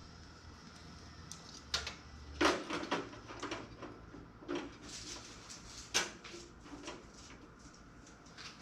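Irregular clicks, knocks and clatter of computer case fans and their cables being handled and fitted into a thin sheet-metal toaster oven case, with a few sharper knocks and softer taps in between.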